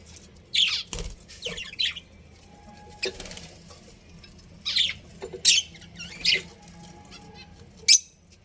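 Budgerigars calling: about seven short, sharp chirps and squawks spread through, each dropping in pitch, with a soft low thump about a second in.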